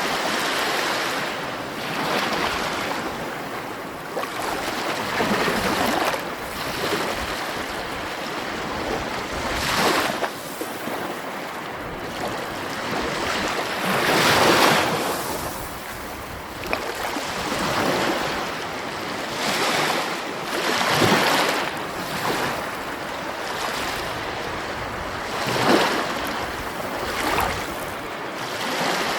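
Sea waves breaking and washing on a shore, surging every few seconds, with the biggest surge about halfway through.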